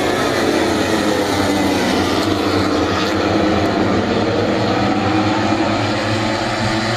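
MotoGP racing motorcycle engines running at high revs, several at once at different pitches, with the pitch sliding down in the first couple of seconds as bikes pass.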